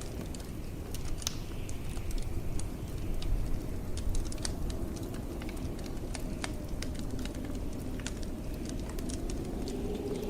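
Wood fire crackling, with sharp irregular pops and snaps over a steady low rumble of blizzard wind. Near the end the wind rises into a soft, wavering howl.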